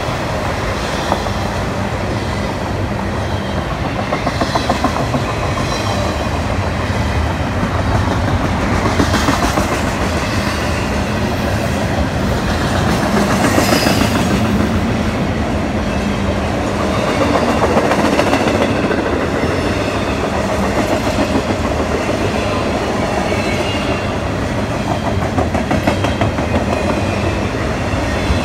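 Union Pacific freight train cars rolling past close by: a steady rumble with the clatter of steel wheels on the rails.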